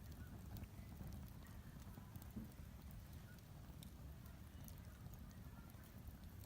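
Outdoor fire pit burning, faint and quiet: sparse small crackles and pops from the burning wood over a steady low rumble.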